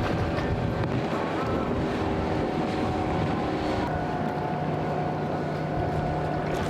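Motorboat engines running steadily over wind on the microphone and surf. The engine note shifts about four seconds in.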